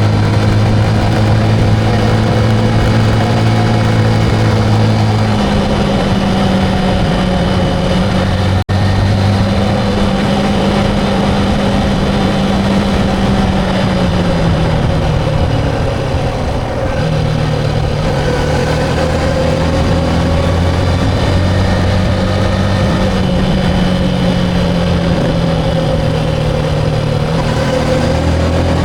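Motorcycle engine running at a steady riding speed, its pitch stepping up or down a few times with throttle and gear changes.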